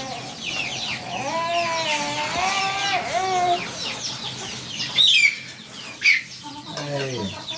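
Chickens clucking and chirping, a quick run of short calls, with two sharper single calls about five and six seconds in.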